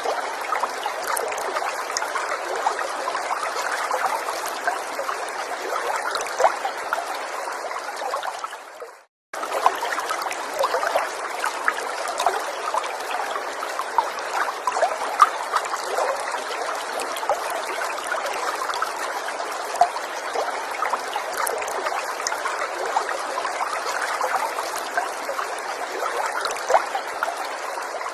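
Small forest stream trickling and babbling steadily, with little splashes and drips over the flow. About nine seconds in it fades out, cuts to brief silence, and comes back abruptly.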